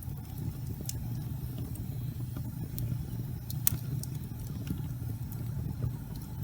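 Fire burning in a fireplace: a steady low rumble of flame with scattered small crackles and one sharper pop a little past the middle.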